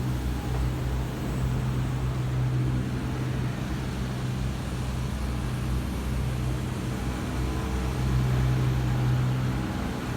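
A steady, low mechanical drone of a running motor, even throughout with a slight swell near the end.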